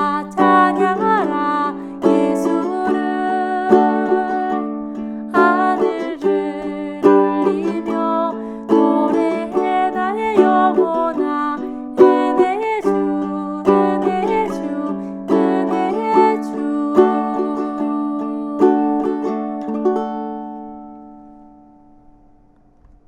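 Ukulele playing the closing bars of a worship-song accompaniment, chord after chord with sharp attacks. It ends on a final chord that rings and fades away over the last few seconds.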